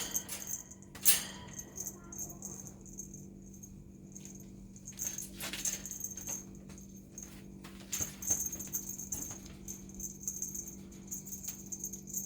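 Intermittent rattling and jingling with scattered sharp clicks, the strongest about a second in and again around five and eight seconds in, over a steady low hum.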